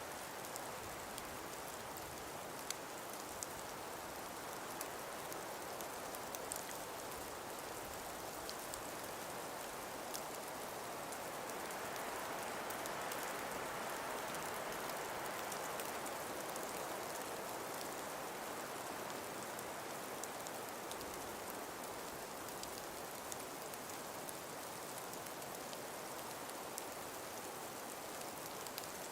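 Calm wind blowing through frost- and ice-covered forest trees, a steady hiss that swells in a gust midway and eases off again, with scattered faint ticks throughout.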